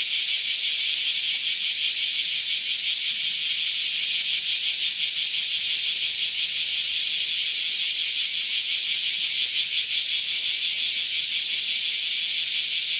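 Cicada calling: a loud, continuous, high-pitched buzz made of very rapid pulses, holding steady.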